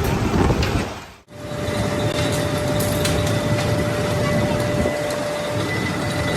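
Steady noise of factory machinery running, with an abrupt change of sound about a second in. A steady whine runs through most of the rest.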